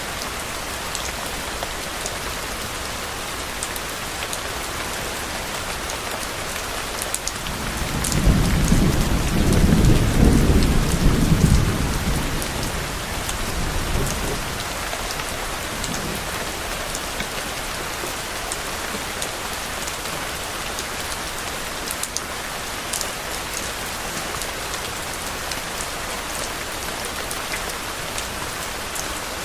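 Steady rain falling on a surface. About seven seconds in, a low thunder roll swells up, peaks a few seconds later and rumbles away by about fourteen seconds, with a faint after-rumble near sixteen seconds.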